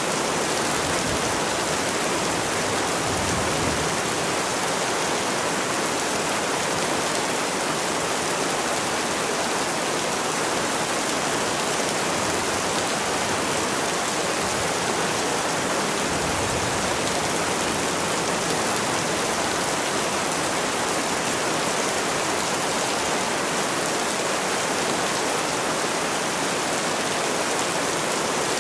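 Rain falling steadily: an even, unbroken hiss of water with no pauses or distinct drops standing out.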